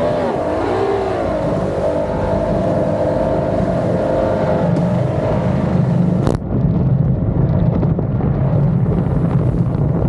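Twin built 2.4-litre Mercury V6 outboards running hard on a race boat, their pitch dipping and rising in the first second, then holding steady at speed. About six seconds in the sound changes abruptly, losing its high hiss, and a steady low engine note carries on.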